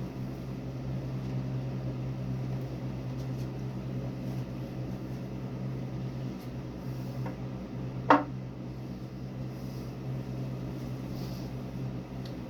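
Steady low hum, like a small motor or fan running, with one sharp click about eight seconds in.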